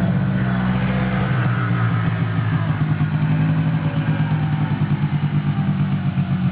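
Quad bike engine running, easing off about a second in and settling into an even, pulsing idle.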